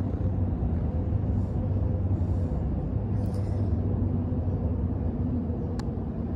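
Steady low rumble of beach background noise, the outdoor air and surf sound at the shore, with no clear single event.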